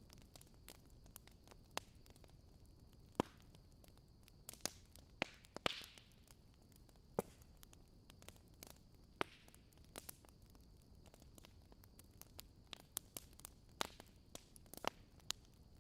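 Wood campfire crackling quietly, with irregular sharp pops and snaps, a few louder than the rest, over a faint steady high tone.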